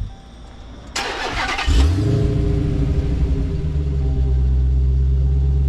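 Dodge Hellcat Redeye's supercharged 6.2-litre V8 being started: the starter cranks briefly about a second in, the engine catches with a loud burst, then settles into a steady low idle.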